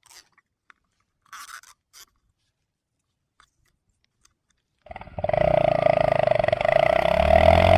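Bajaj Pulsar NS160's single-cylinder engine starting to run loudly through a changed exhaust about five seconds in, with a strong steady tone and a pitch that rises and falls. Before that, only a few faint scratchy noises.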